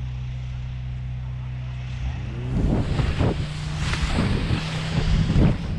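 A steady engine hum, then from about two and a half seconds in gusts of wind buffet the microphone over a continuing low drone.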